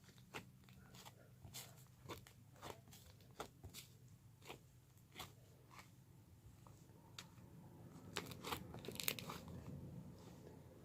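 Green butter slime with foam balls being squished and stretched by hand, giving soft irregular crunching and clicking as the foam beads are pressed.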